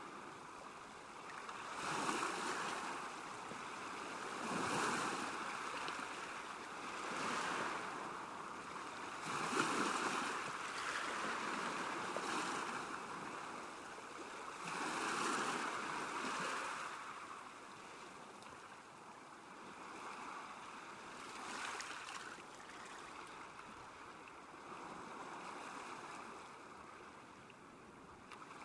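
Small waves lapping at a lakeshore, each wash swelling and fading every two to three seconds, gentler over the last third.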